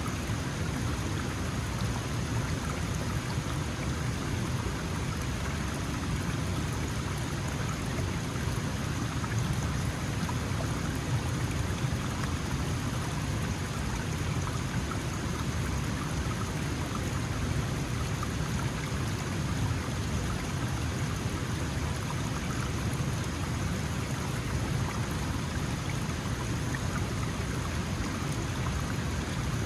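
Small mountain stream flowing steadily over rocks, a continuous rush of water with no breaks.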